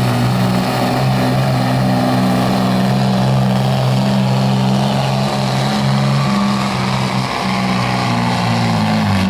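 Engine of a pulling truck or tractor running hard at high revs, a loud steady drone that holds its pitch, sagging slightly and then cutting off suddenly near the end.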